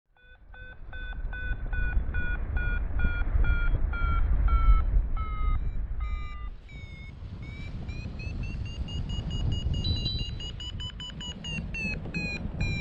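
Paragliding variometer beeping in climb, a steady run of short beeps over heavy wind noise on the microphone. About six seconds in the beeps jump higher in pitch and come faster, the vario's sign of a stronger climb in the thermal.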